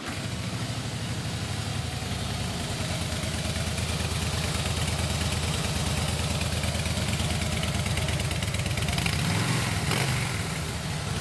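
Harley-Davidson Fat Boy's fuel-injected 96-cubic-inch Twin Cam V-twin idling steadily just after being started, with a short rise in revs near the end.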